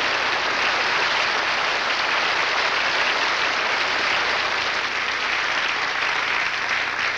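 Studio audience applauding steadily and loudly at the end of a song-and-dance number.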